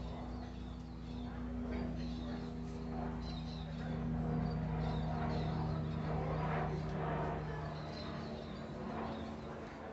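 Clothes being handled and pushed into a top-loading washing machine drum, with fabric rustling, over a steady low hum. Small birds chirp in the background.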